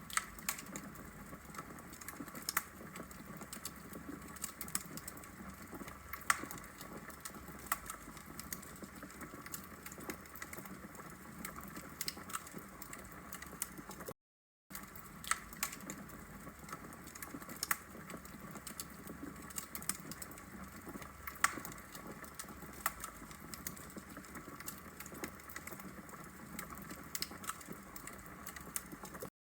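Wood logs burning in a fireplace, crackling with irregular sharp pops over a soft steady hiss. The sound cuts out to silence for a moment about halfway through.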